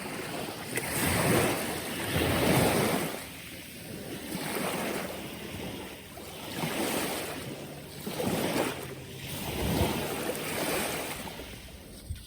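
Sea waves washing onto the shore, a steady rushing noise that swells and ebbs every second or two.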